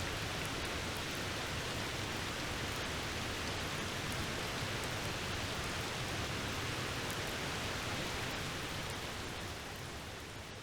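Steady rain falling, an even hiss with scattered small drop ticks, fading out near the end.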